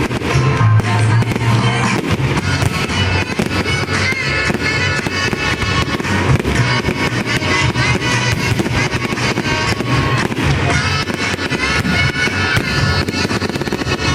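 Fireworks bursting and crackling in quick succession over loud music played for the display.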